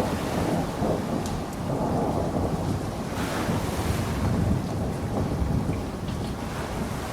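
Steady rain falling, with a low, uneven rumble underneath and a few faint individual drop taps.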